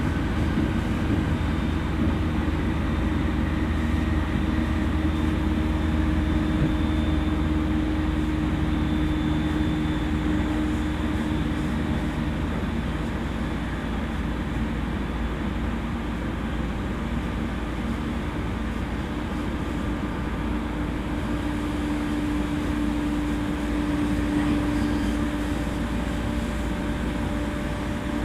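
JR East E231 series electric train running along the line: steady wheel and rail noise with a motor hum that fades about halfway and comes back later.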